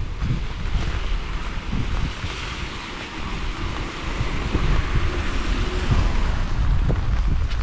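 Steady rain falling, with wind buffeting the microphone as a low rumble under the hiss of the rain, a little louder from about halfway through.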